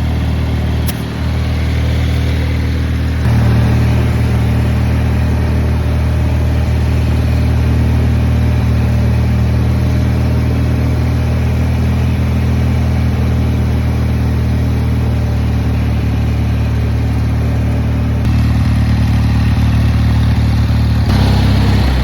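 Craftsman garden tractor's Kohler 18-horsepower twin-cylinder engine running steadily. Its speed steps up about three seconds in and shifts again near the end.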